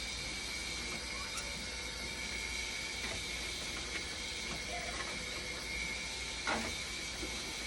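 Dialysis machine running: a steady hum with a high whine, scattered with small mechanical clicks, and one sharper click about six and a half seconds in.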